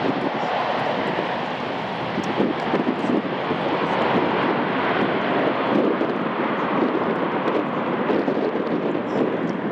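Business jet's turbofan engines running, a loud steady noise with no change in pitch.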